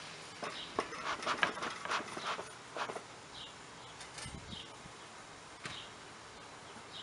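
A run of sharp clicks and scrapes in the first three seconds, the handling of a wooden Langstroth beehive and its tools, then a dull thud about four seconds in. A bird gives a short high chirp about once every second or so throughout.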